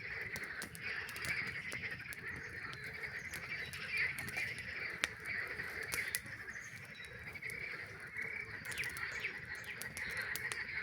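Dense chorus of frogs calling without a break, with the sharp crackles and pops of a campfire scattered through it.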